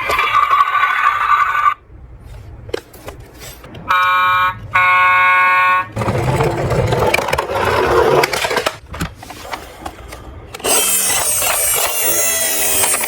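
Electronic siren and alarm tones from toy emergency vehicles, sounding in several held bursts, with a stretch of rattling noise in the middle.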